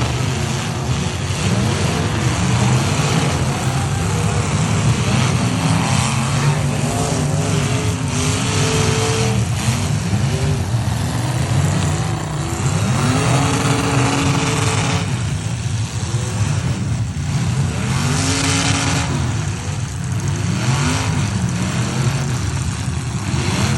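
Several demolition derby trucks' engines revving at once, their revs rising and falling over each other in a loud, continuous din.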